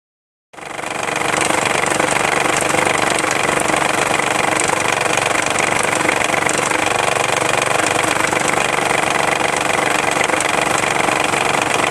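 Isuzu Rodeo engine running with a loud, rapid flapping and banging from its loose timing belt slapping around inside the cover: the hydraulic timing belt tensioner has failed. The sound starts abruptly about half a second in and then holds steady.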